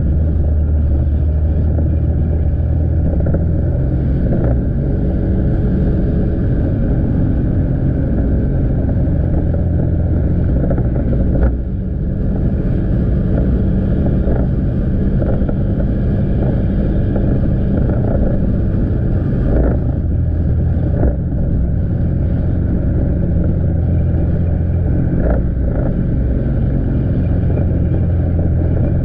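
Motorcycle engine running steadily while riding, with the rush of wind and road noise. A short knock and a brief dip in loudness come about eleven and a half seconds in.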